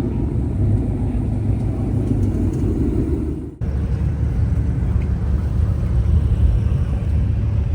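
Steady low rumble of a car on the move, engine and road noise, with a brief dropout about three and a half seconds in.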